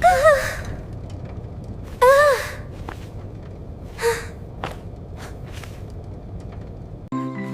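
Short rising-and-falling vocal cries, two louder ones about two seconds apart and a fainter one a couple of seconds later, over a steady low rumble. Music with held tones comes in near the end.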